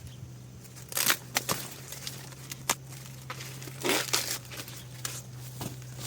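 Crinkling and tearing sounds in irregular bursts, with a steady low hum underneath.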